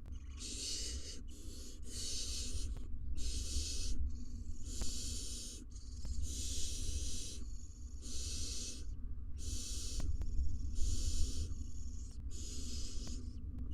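Barn owl nestlings giving their hissing, snore-like begging calls, one after another about once a second, over a steady low hum.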